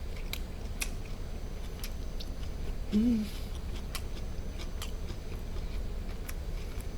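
A person chewing grilled duck meat, with scattered sharp mouth clicks, and a brief hummed 'mm' from the eater about three seconds in. A steady low hum runs underneath.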